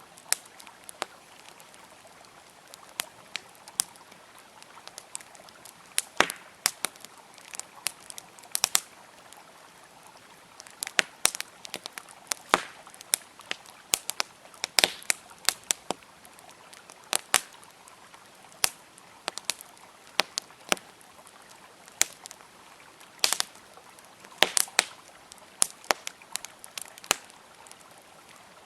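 Wood campfire crackling, with sharp irregular pops coming in clusters, over the steady faint rush of a flowing river.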